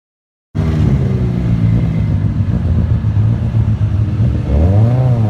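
1985 Toyota Sprinter Trueno rally car's engine running, cutting in suddenly about half a second in, then revved up and down near the end.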